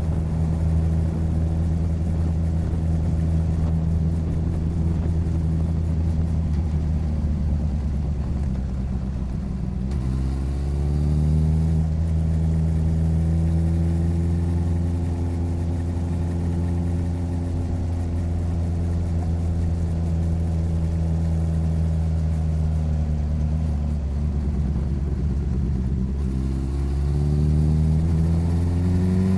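Motorcycle engine running on the road. About ten seconds in its pitch dips, then rises as it accelerates and settles into a steady cruise; near the end it rises again under acceleration.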